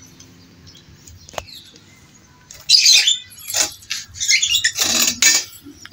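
Birds chirping and flapping their wings in short, irregular bursts through the second half, after a quieter stretch; a single sharp click comes about a second and a half in.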